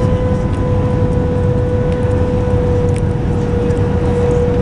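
Cabin noise of an Airbus A320 airliner during landing: a steady low rumble with a constant steady tone from the engines over it.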